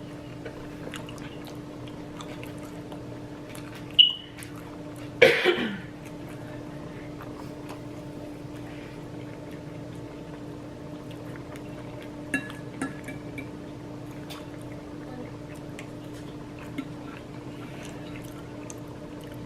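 Kitchen sounds over a steady low hum: a sharp click about four seconds in, a louder clatter a second later, then a few light taps.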